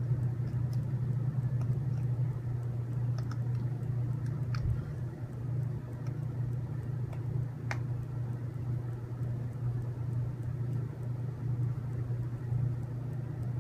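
Steady low background hum, with a few faint light clicks of small plastic robot-kit parts being handled and fitted together.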